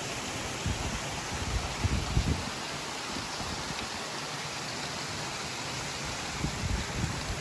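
Small waterfall's steady rush of falling water, with a few brief low rumbles of wind buffeting the microphone about a second in, around two seconds and near the end.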